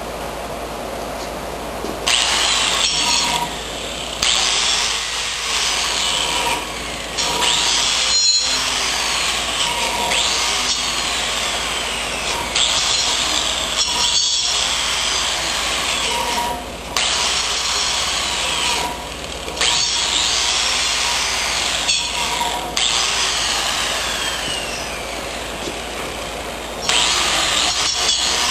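A handheld power tool running in repeated bursts of a few seconds each, starting about two seconds in, its pitch sweeping up and down as it works, during a repair of the snowblower's auger.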